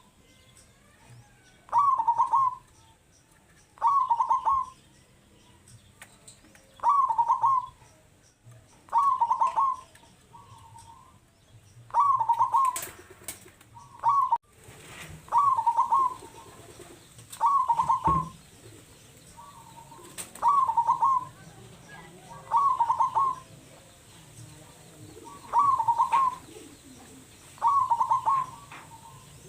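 Zebra dove (perkutut) cooing its song over and over, one short phrase of quick notes about every two seconds, with a few softer short coos between some phrases.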